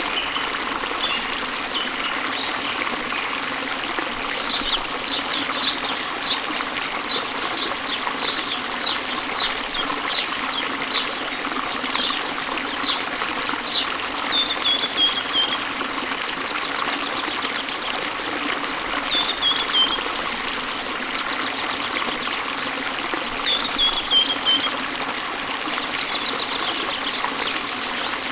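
Waterfall water running steadily, with a songbird singing over it: a run of short high chirps, about one and a half a second for some nine seconds, then a few short falling trills.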